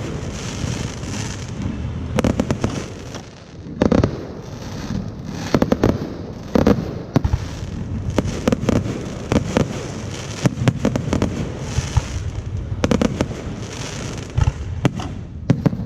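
Fireworks going off: an irregular series of loud bangs, at times several a second, over a constant rumbling din.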